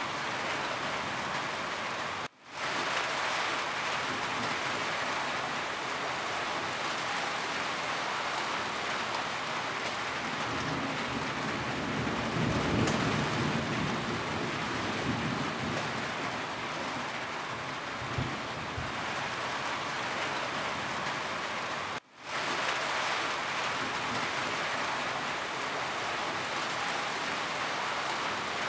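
Steady rain falling on a roof, with a low rumble of distant thunder swelling in the middle. The sound drops out for a split second twice, about two seconds in and again about twenty-two seconds in.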